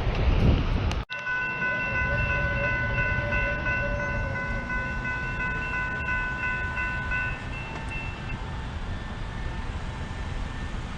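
A train's rumble, then after a sudden cut a locomotive's multi-chime air horn sounding one long steady chord of several notes for about six seconds, its notes dropping out one by one, over the ongoing rumble of the passing train.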